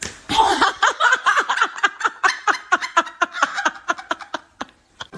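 A person laughing hard in a long run of quick, high-pitched laughs, about four or five a second, that slows and fades away near the end.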